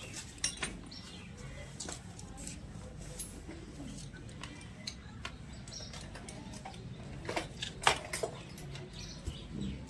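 Scattered sharp clicks and clinks of small metal motorcycle engine parts being handled during a repair, with a cluster of louder clicks near the end.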